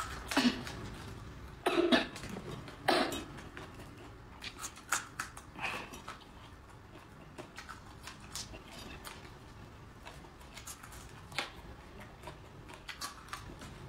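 Close-up eating of raw red chili peppers: three loud crunching bites in the first three seconds, then soft, irregular chewing clicks and mouth sounds.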